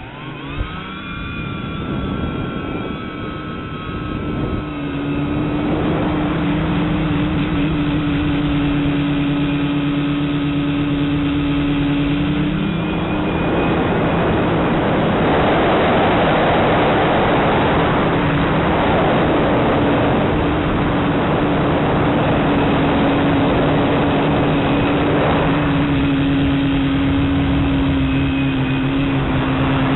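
A tricopter's three electric motors and propellers, heard through its onboard camera, spinning up over the first few seconds and then running steadily in flight. A steady hum shifts in pitch a few times, with a rush of air over it.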